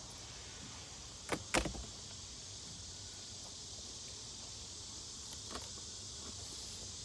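Crickets chirring in a steady high band, with two sharp knocks about a second and a half in and a fainter one later.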